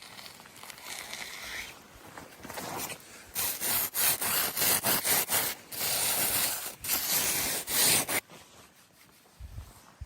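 Rasping strokes of a tool working wood, typical of hand-sawing. Softer scraping comes first, then a run of quick, loud strokes that stops suddenly about eight seconds in.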